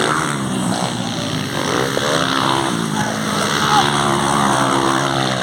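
Motocross bike engines running on the track: a steady drone that shifts a little in pitch.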